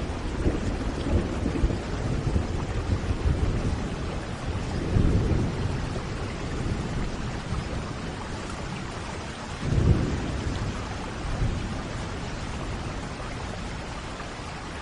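Steady heavy rain with thunder rolling low underneath, in several swells; the strongest rumble comes about two-thirds of the way through and fades away.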